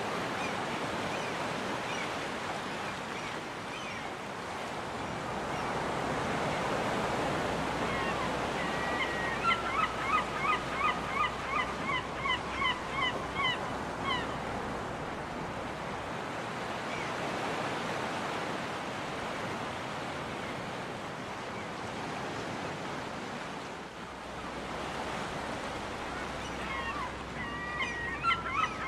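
Surf washing steadily on a beach. A seagull calls in a rapid series of short repeated notes, about two a second, for several seconds about a third of the way in, and starts another series near the end.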